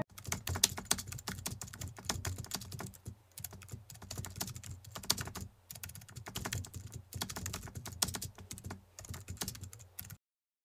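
Typing on a computer keyboard: a quick, irregular run of key clicks that stops suddenly about ten seconds in.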